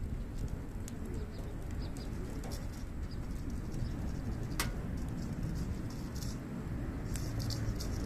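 Hardwood campfire burning with a steady low rumble and scattered crackles, one sharp pop about halfway through and a quicker run of crackles near the end.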